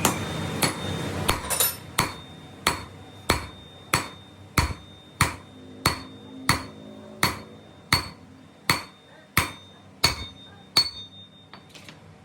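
Hammer blows on metal, a steady run of about seventeen strikes at roughly one and a half a second, each with a short metallic ring. The hammering stops about a second before the end.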